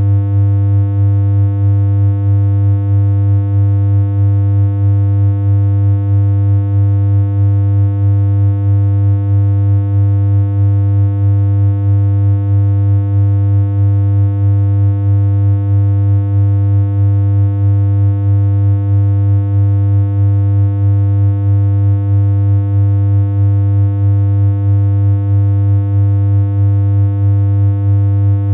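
Steady synthesized electronic hum: a loud, buzzy low drone held on one unchanging pitch, rich in overtones, with a slight regular pulsing in its loudness.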